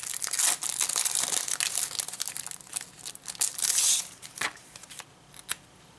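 A packaging wrapper crinkling and rustling as it is handled and opened, with a couple of sharp clicks in the second half, then quieter toward the end.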